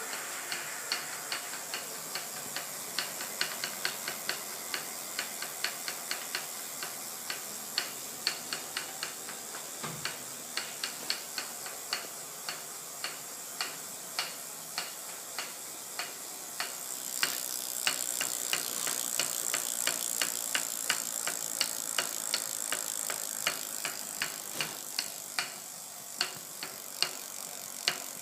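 Bicycle's strange noise: a sharp tick repeating about two to three times a second, over a steady hiss that grows louder about two-thirds of the way through.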